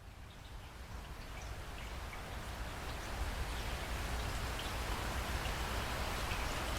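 Steady rain falling, with scattered individual drops heard close by; it fades up over the first few seconds.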